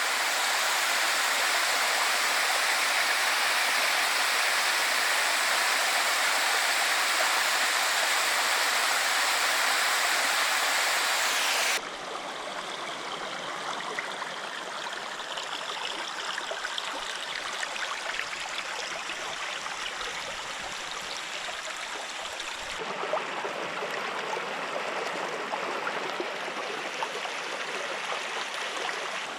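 Rushing water of mountain waterfalls and streams, in three spliced recordings. A loud, even rush runs for about the first twelve seconds, then cuts abruptly to a quieter flowing stream, and the sound changes again a little past twenty seconds.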